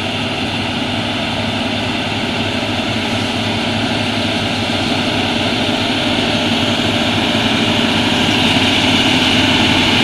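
Heavy diesel tanker truck engine labouring up a steep grade under load. It is a steady drone that grows gradually louder.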